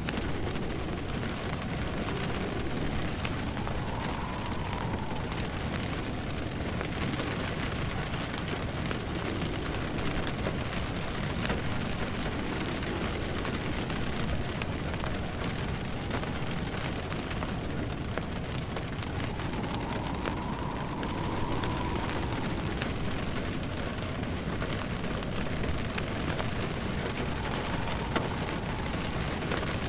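Steady rain falling, with a wood fire crackling in short ticks, and a faint whistle that swells and fades a few times.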